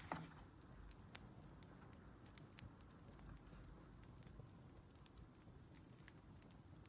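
Faint crackling of a wood fire: irregular sharp pops and snaps over a low hiss.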